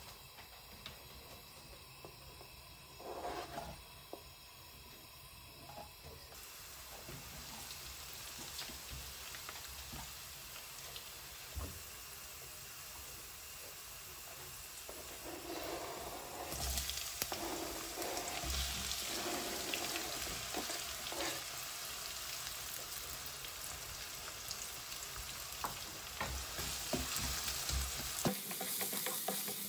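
Chopped garlic sizzling in hot oil in a non-stick wok, the sizzle growing louder as it goes; near the end chopped red onion frying while a wooden spatula stirs it, with small scraping clicks.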